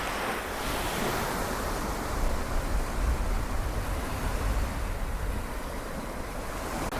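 Sea waves washing on the Seto Inland Sea shore in a steady wash of noise, swelling louder with a low rumble a couple of seconds in and easing off again.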